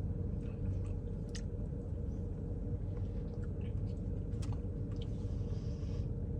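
A person chewing a mouthful of a Blizzard with pineapple and coconut flakes, with a few faint clicks, over a steady low hum.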